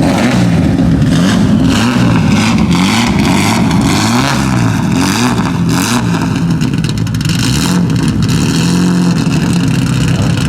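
Rally car engine running with repeated throttle blips, its pitch rising and falling again and again, then holding steadier near the end.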